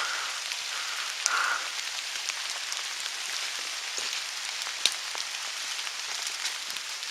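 Steady rain falling in woodland, a constant hiss with scattered louder drops landing close by, one sharp tick near five seconds in.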